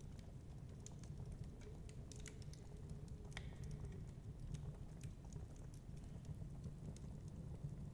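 Wood fire crackling in a fireplace: many small irregular snaps and pops, with one sharper pop a little before halfway, over a steady low rumble of storm wind.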